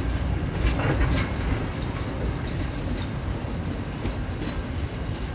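Freight train wagons rolling past: a steady low rumble of steel wheels on rail, with a few sharp clacks about a second in.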